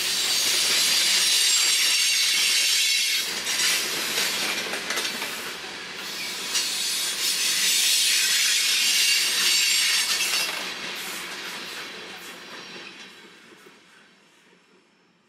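A train's cars rolling past close by, the wheels on the rails making a loud high hiss and squeal, which fades away steadily over the last few seconds as the train moves off.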